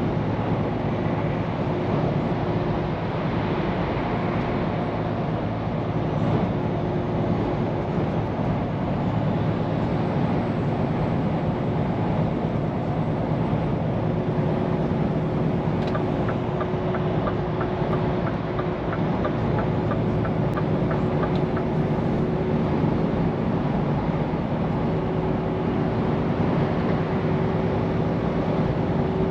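Scania P410 truck's diesel engine running steadily with road noise while driving, heard from the cab. In the middle, a run of regular light ticks lasts for a few seconds.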